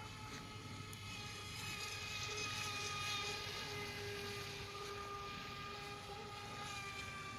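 Radio-controlled model boat running on the water, its motor giving a steady high-pitched whine that swells louder around the middle.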